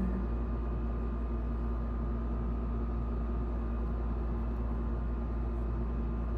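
A steady low hum with a few faint constant tones and no distinct events: background machine noise in the room.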